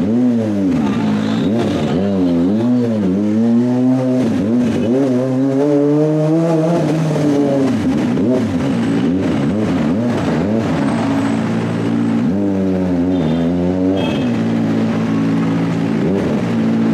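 Kawasaki ZX-25R's 250 cc inline-four engine being revved in short blips and longer rises and falls through the first half, then holding a steady idle. A quick run of revs comes about three-quarters of the way through before it settles back to idle.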